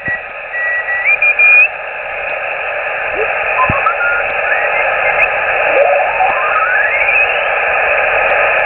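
Amateur radio receiver on the 80 m band giving out steady band-limited static hiss, with heterodyne whistles that step and slide upward in pitch as the receiver is tuned across signals; one long rising whistle comes near the middle.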